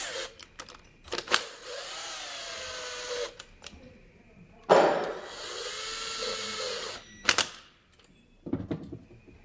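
A power tool running in two bursts of about two seconds each, its whine dipping and rising in pitch, with sharp clicks before and after.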